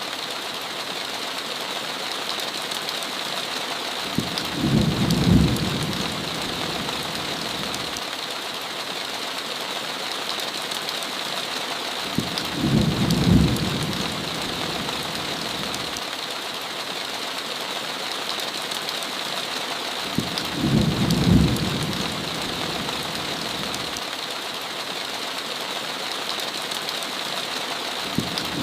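Heavy rain falling steadily, with a short low rumble of thunder that comes back every eight seconds, four times, each lasting about a second and a half.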